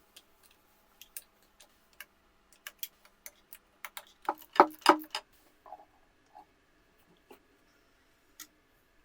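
Irregular sharp clicks and knocks of hand tools and metal engine parts being handled, with a louder cluster of knocks about four to five seconds in.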